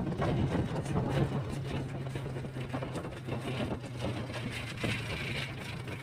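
A vehicle's engine running steadily with a low hum, under road noise.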